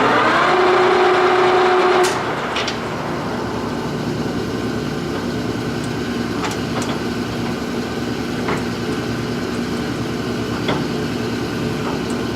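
Clausing Colchester 15x50 lathe spindle coming up to speed at 625 rpm: a rising whine in the first half second that holds for about two seconds, then drops away. The machine then runs steadily with a low hum and a few light clicks.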